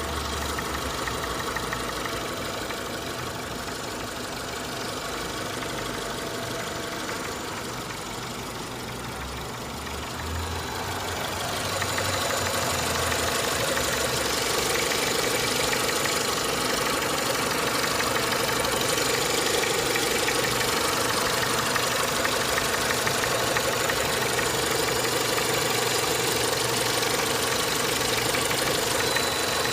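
Renault Mégane II's K4M 1.6-litre 16-valve four-cylinder petrol engine running with a steady knocking, the classic K4M knock that mechanics call normal. It grows louder and brighter about eleven seconds in.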